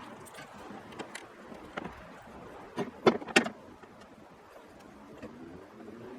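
Scattered short clicks and knocks, with two sharp, loud knocks close together about three seconds in.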